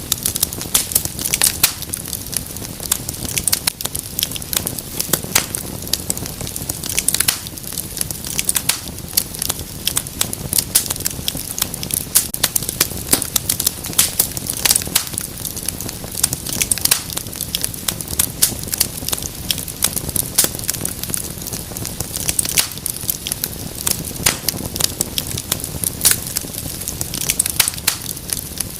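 Wood fire crackling in a fireplace: dense, irregular pops and snaps over a steady low hiss of flames.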